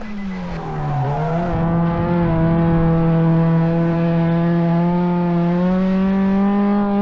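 Drift car engine held at steady high revs through a slide, the pitch dipping about a second in, then holding and climbing a little near the end.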